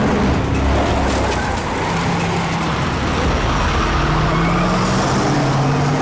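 Car engines running hard at speed, with road and traffic noise.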